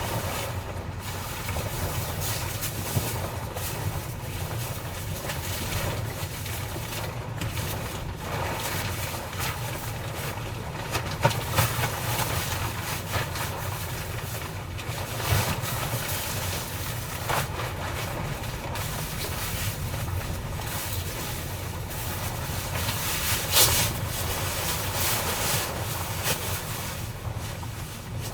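Typhoon wind and rain battering a kei-truck camper: a steady low rumble and hiss that surges with the gusts, with sharp louder hits about 11, 15 and 23 seconds in.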